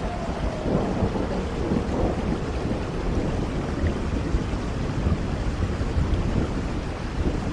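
Thunderstorm ambience: steady rain with low rumbling thunder.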